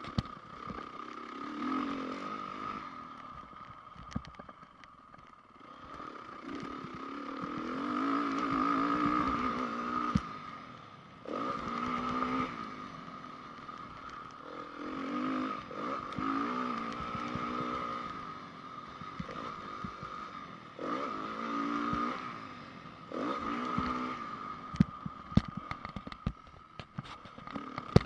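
2010 Honda CRF450R single-cylinder four-stroke motocross engine revving up and shutting off again and again, over a dozen bursts of throttle, with sharp knocks and clatters of the bike over the track.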